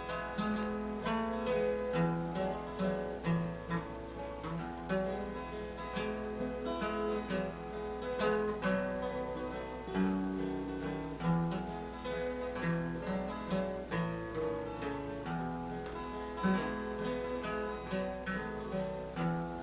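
Acoustic guitar playing an instrumental break between sung verses of an old country song, a steady run of picked and strummed notes.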